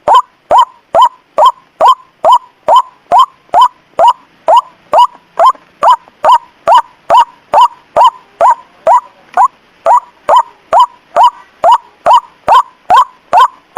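White-breasted waterhen (ruak-ruak) call used as a bird-trapping lure: a short note that sweeps up in pitch, repeated steadily and loudly about two and a half times a second.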